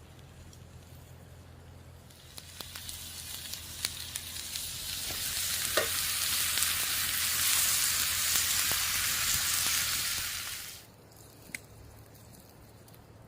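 Meat frying and sizzling, the sizzle swelling from about two seconds in and dropping away suddenly near the end, with a few sharp clicks. A low steady hum lies underneath.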